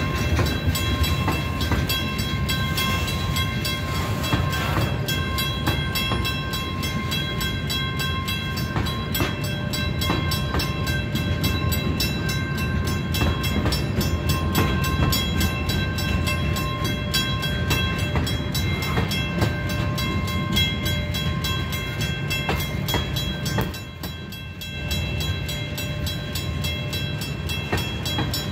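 Freight train of boxcars and tank cars rolling past: a steady low rumble with dense, regular wheel clicks and several steady high ringing tones over it, briefly quieter about 24 seconds in.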